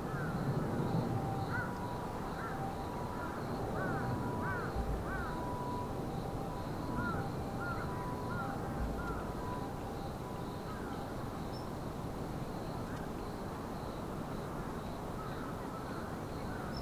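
Birds calling: short, arched calls in quick runs of three or four, mostly in the first half, over a steady low background rumble.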